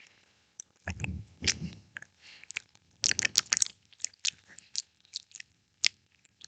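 ASMR mouth sounds close to the microphone: wet clicks, pops and tongue smacks, in dense clusters about a second in and again around three seconds in, then single clicks spaced out.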